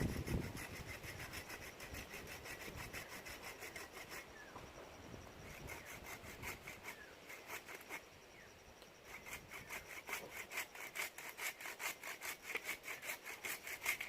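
Hand saw cutting through wood in quick, even back-and-forth strokes, about four a second, in three runs with brief pauses between them.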